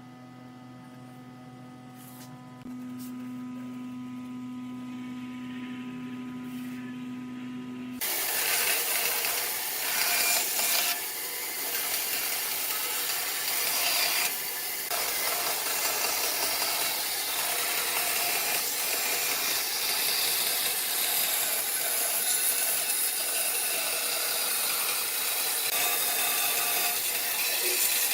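A tool working wood: a steady low hum for the first eight seconds, then a sudden loud, continuous noise of the tool cutting or abrading the wood that carries on to the end.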